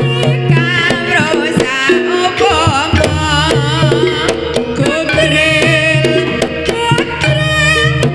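Gending banyumasan jaranan music played live through a loud sound system: hand-drum (kendang) strokes over sustained gamelan tones, a wavering, sliding melody line and heavy bass.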